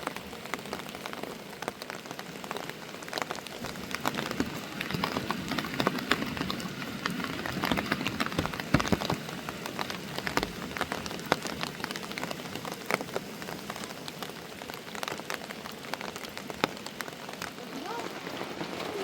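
Steady rain falling on a surface, with many sharp individual drop hits heard through a continuous hiss.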